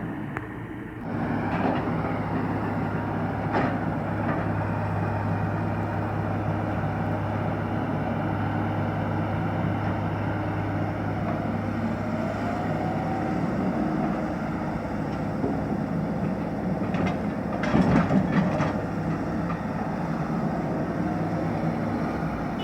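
Excavator diesel engine running steadily, with a low hum throughout. There is a single knock about three and a half seconds in and a cluster of louder knocks near the end of the middle section.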